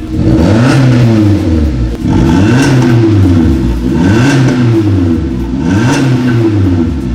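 Suzuki Jimny engine revved four times through an FMS Molotov handcrafted exhaust, each rev rising in pitch and falling back, loud.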